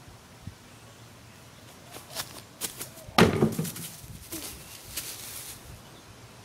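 A run of sharp knocks and thumps against a fence, the loudest a heavy thump a little over three seconds in, followed by a few lighter knocks.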